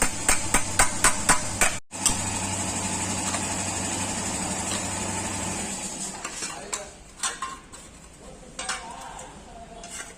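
Several quick hammer strikes on a Maruti 800's sheet-metal body panel during hand dent repair. About two seconds in the sound cuts to a steady hiss with a low hum, then scattered light knocks and clatter near the end.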